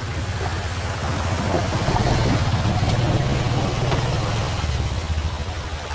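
Motorcycle engine running steadily under a broad rushing noise, growing a little louder toward the middle and easing off near the end.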